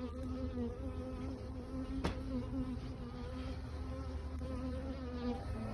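Honey bees buzzing around an open hive, a steady drone that wavers slightly in pitch. A single sharp click about two seconds in.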